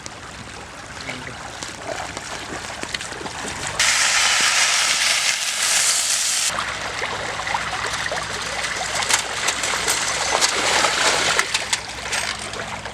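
River water splashing and trickling, with many small splashes. A louder, hissing rush of splashing water starts abruptly about four seconds in and cuts off suddenly a couple of seconds later.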